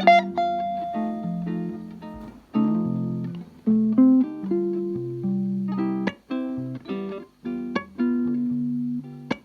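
Acoustic guitar playing a gypsy jazz blues: plucked chords and single notes, each attacked sharply and left to ring.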